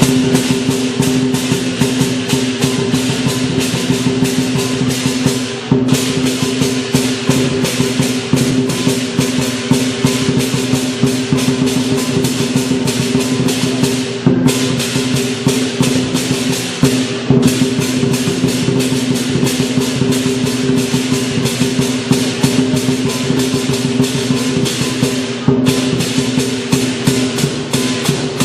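Lion dance percussion: a Chinese lion drum beaten in a fast, unbroken roll of strokes over clashing cymbals and a ringing gong, with brief breaks in the rhythm a few times.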